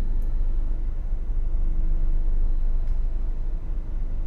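Steady low rumble of a ship's diesel engine running, with faint humming tones over it.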